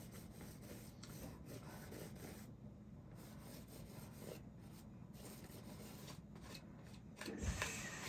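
Faint scraping and rubbing of a palette knife spreading thick acrylic paint across a canvas in short strokes. Near the end there is a louder knock with a low thud.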